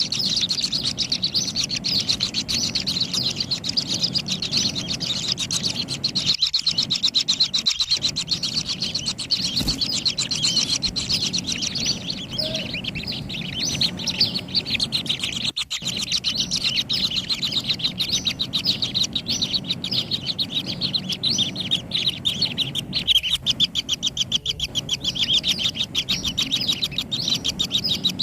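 Kingfisher nestlings calling in a burrow nest: a rapid, unbroken stream of high chirps.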